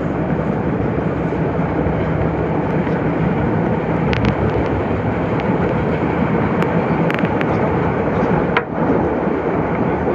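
Nagoya subway Higashiyama Line 5050-series electric train running at speed, a loud, steady rumble of steel wheels on rail. A few short sharp clicks come about four seconds in and again around seven seconds in.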